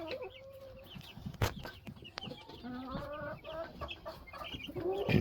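Chickens clucking, with many short high peeps from chicks over them, a sharp click about a second and a half in, and a louder rising call near the end.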